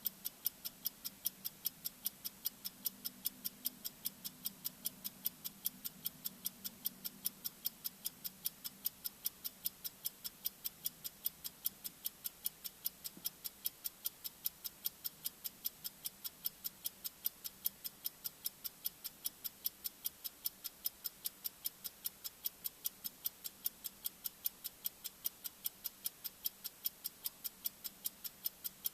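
Bomb-timer ticking sound effect: sharp, evenly spaced high ticks, a few a second, keeping a steady pace, over a faint low hum that fades in the first third.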